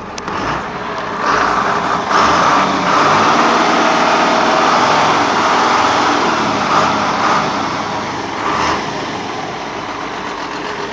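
A 1996 Ford Blue Bird school bus's Cummins diesel engine being revved up from idle. The revs climb over the first couple of seconds, hold high for several seconds, then ease back down toward idle near the end.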